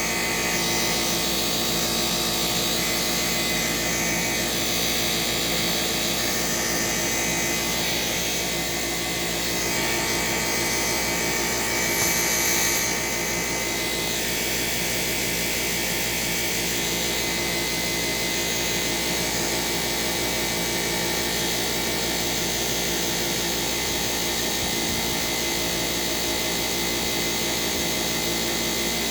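Shark Rocket vacuum cleaner running steadily: a motor whine with several steady tones over a hiss. About twelve seconds in it is briefly louder and brighter.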